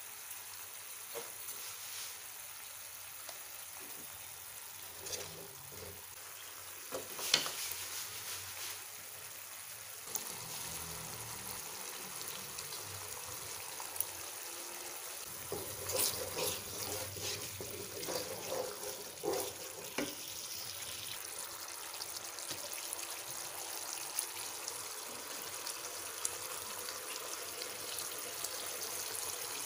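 Spice paste for urap sizzling and bubbling in a nonstick wok with a steady hiss. A wooden spatula knocks and scrapes against the pan a few times, most around the middle.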